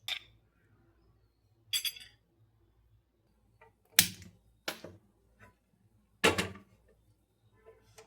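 A handful of sharp knocks and clatters of hard household objects being handled and set down, about five in all, one of them with a short ringing clink.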